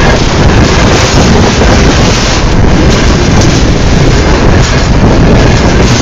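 Railway wagons rolling directly over a microphone set between the rails: a loud, steady rumble and rush of steel wheels and bogies passing just overhead, with wind buffeting the microphone.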